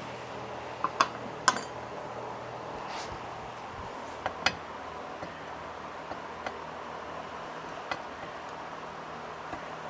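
Sharp metallic clicks and clinks from hand tools and small metal parts being handled, a few loud ones in the first half and fainter ones after, over a steady low shop hum.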